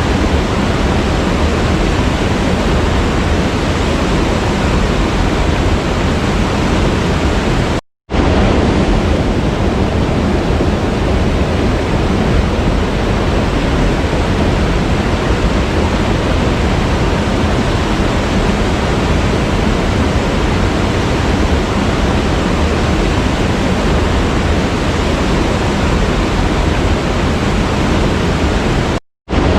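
Waterfall rushing in a steady, even roar, cut to silence for an instant twice, about eight seconds in and near the end, where the loop is joined.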